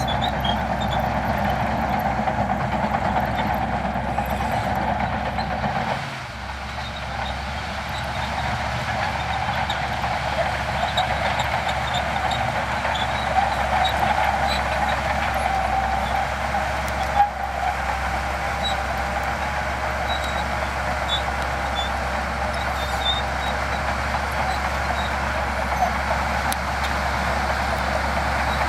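Heavy diesel earthmoving machinery running steadily under work, with a brief drop in engine noise about six seconds in and a single sharp knock a little past halfway.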